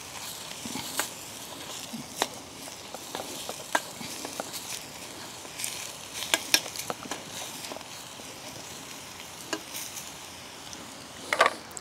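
Sauerkraut and corned beef sizzling in a steel frying pan over a wood fire. A metal spatula scrapes and taps against the pan every second or so as the food is stirred.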